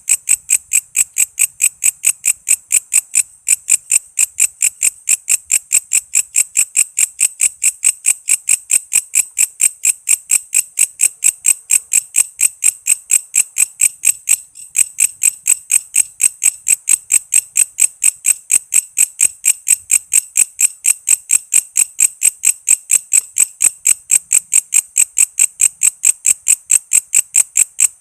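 Walang kece insect calling: an even, unbroken train of sharp, high chirps, about three to four a second, with two brief breaks about 3 and 14 seconds in.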